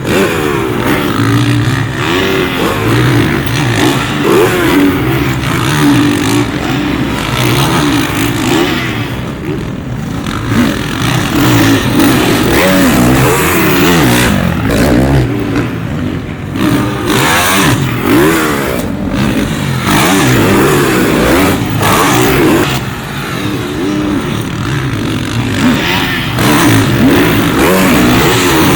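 Several supercross dirt bikes revving on the track, on and off the throttle, their engine pitch rising and falling continuously as they overlap.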